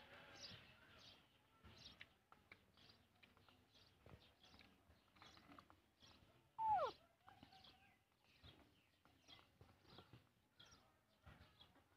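Quiet outdoor background with faint, repeated bird chirps. About six and a half seconds in, one short, louder call slides down in pitch.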